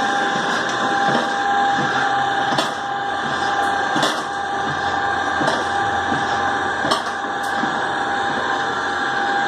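Homemade bran dryer running on a 3/4 hp three-phase geared motor: a steady mechanical hum with a steady whine, and a light knock about every second and a half.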